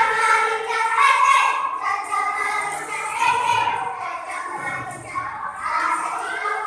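A children's choir singing, with long held notes and reverberation from a large hall.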